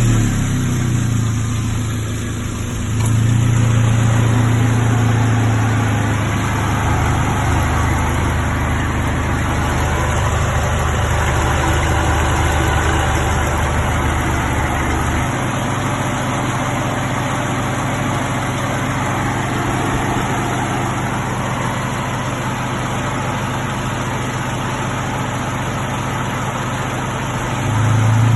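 Mazda FS 2.0-litre four-cylinder petrol engine idling steadily just after being started, the check run of a used engine before removal. It runs louder for a few seconds about three seconds in, and swells briefly again at the end.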